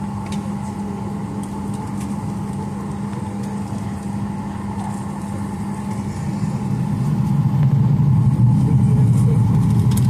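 Steady hum inside a Boeing 737-900ER cabin parked at the gate, with a low rumble swelling about seven seconds in.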